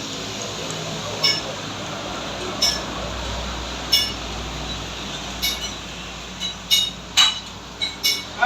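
Metal striking metal: a series of sharp clinks, each with a short bright ring, irregularly spaced and coming faster toward the end.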